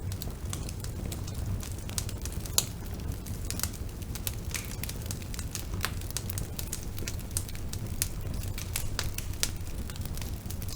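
Bonfire burning, with a steady low rumble under many irregular sharp crackles and pops from the burning wood; one pop about two and a half seconds in is louder than the rest.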